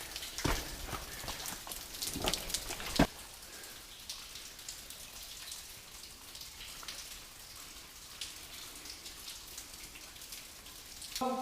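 Water dripping in a mine passage: a scatter of drips and splashes, with several louder splashes or knocks in the first three seconds, the loudest about three seconds in, then fainter, sparser drips.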